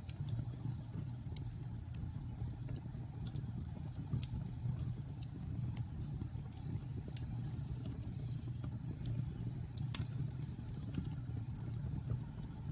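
Wood bonfire burning: a steady low rumble of flames with scattered sharp crackles and pops from the burning wood, the loudest pop about ten seconds in.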